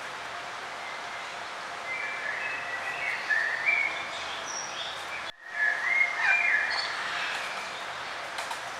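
Songbirds chirping in short phrases over a steady background hiss, with a split-second break in the sound about five seconds in.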